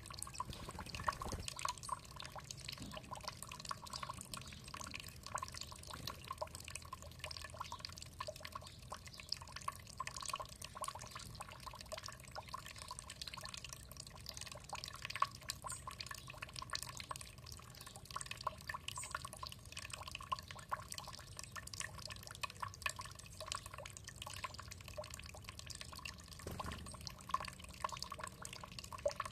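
Water dripping and splashing in a dense, steady patter of small quick drops.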